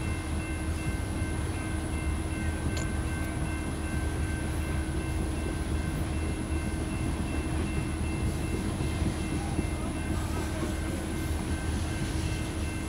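Freight train cars rolling past: a steady rumble of wheels on the rails, with faint steady tones above it.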